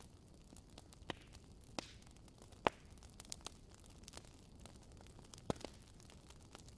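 Wood fire in a fireplace crackling: a faint steady hiss with scattered, irregular sharp pops, the loudest about two and a half seconds in.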